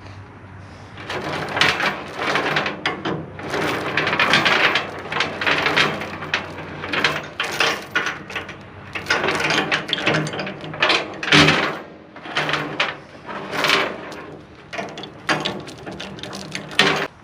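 Grade 70 tie-down chains clattering and clanking, mixed with ratcheting clicks from the chain binders, as a compact track loader is chained down on an equipment trailer. The clatter is irregular and loud, starts about a second in and stops abruptly at the end.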